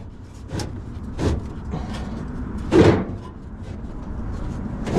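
A few short, sharp knocks and clunks from hands-on work on the vehicle, the loudest about three seconds in.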